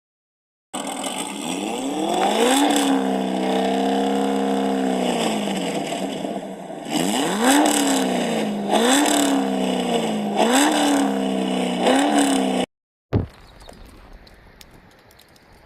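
Car engine revving: one long rev held for about two seconds and then dropping back, followed by four quick blips of the throttle. It cuts off suddenly near the end, leaving a short thump.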